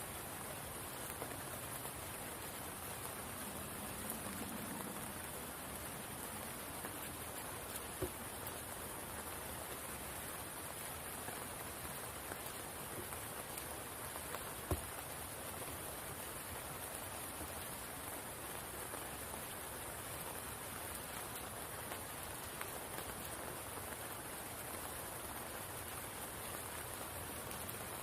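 Steady rain falling onto the pool of a spring, an even patter with a couple of louder single drops, one about eight seconds in and a sharper one about halfway through.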